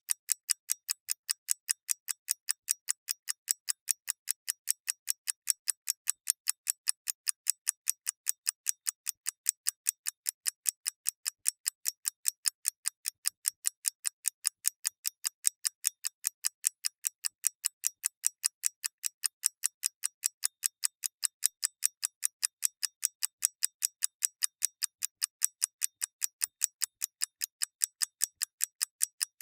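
Clock ticking rapidly and evenly, about four to five sharp, thin ticks a second with no low end.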